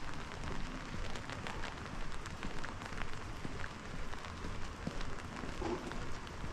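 Steady rain falling, an even hiss dotted with many small, quick drop ticks.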